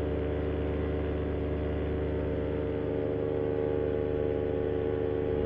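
Moster 185 single-cylinder two-stroke paramotor engine and propeller running steadily in flight, holding an even drone.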